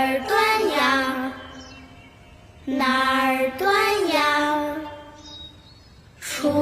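A high voice singing two long, drawn-out phrases with vibrato over soft musical accompaniment, quieter gaps between them; the accompaniment swells in with low notes near the end.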